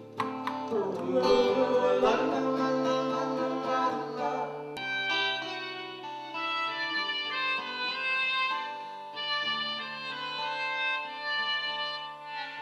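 Music on string instruments, plucked and bowed. About five seconds in it cuts abruptly to a passage of long held notes.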